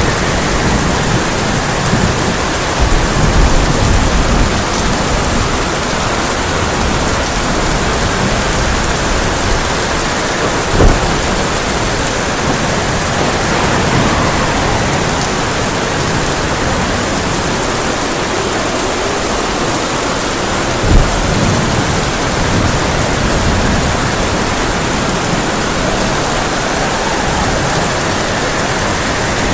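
Heavy rain falling steadily on a tin roof in a thunderstorm, with low rumbling thunder in the first few seconds. Two short sharp cracks stand out, one about a third of the way in and one about two thirds in.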